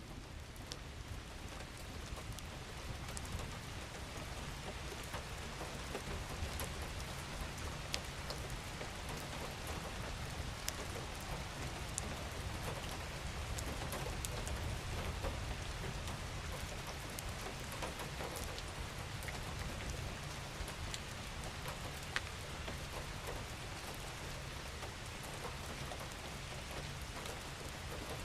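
Steady rain falling, a dense even hiss with individual drops ticking here and there over a low rumble. It swells a little over the first few seconds, then holds steady.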